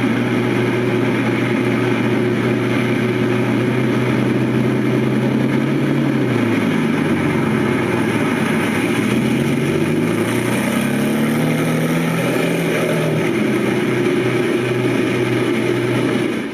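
1985 Lamborghini Countach QuattroValvole's V12 engine running at a steady idle. About halfway through, its pitch sags and then climbs back up before it settles again.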